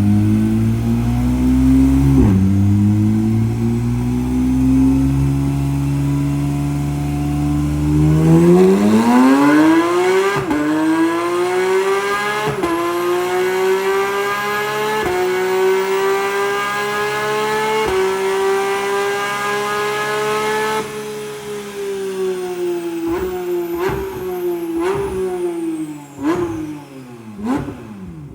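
A 992 Porsche 911 GT3 RS's naturally aspirated 4.0-litre flat-six, breathing through a Boost Logic exhaust, making a full-throttle dyno pull. It runs low and steady at first, then the revs climb hard about a third of the way in, with quick upshifts that drop the pitch sharply every two to three seconds. About three-quarters of the way through it lifts off and the revs fall, with a run of short downshift blips near the end.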